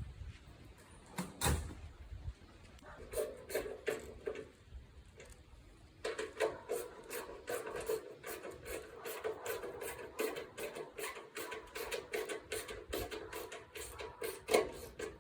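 Quick, evenly repeated rasping strokes, a short run and then a longer one, after a single knock about a second and a half in.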